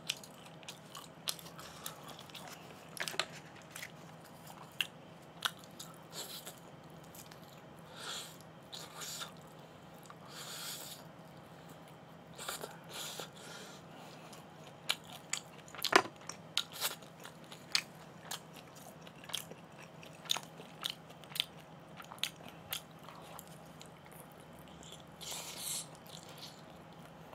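A person chewing and biting LA galbi (marinated beef short ribs) and rice close to the microphone: scattered short clicks and brief smacks at a low level, over a faint steady hum.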